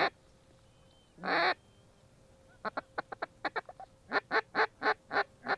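Waterfowl calling: one longer honk-like call, then a quick run of short notes, then a louder, evenly spaced string of six calls.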